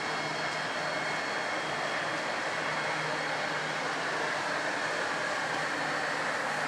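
A train running past: a steady rushing rolling noise with no clear wheel beats.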